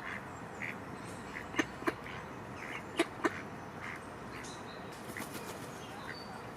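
Ducks quacking in short calls, with two pairs of louder quacks about a second and a half in and at three seconds, and fainter calls between.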